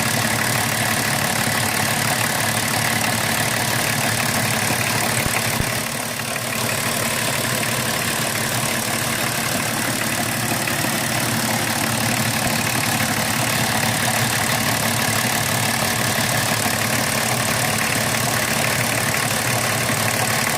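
BMW 325tds E36's 2.5-litre straight-six turbodiesel idling steadily, its Bosch injection pump actuator freshly resealed, with a brief dip in level about six seconds in.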